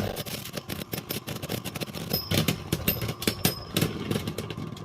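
Two Beyblade Burst spinning tops, Prominence Valkyrie and Roar Bahamut, clattering against each other in a plastic stadium as a dense run of rapid clicks. The clatter cuts off abruptly near the end.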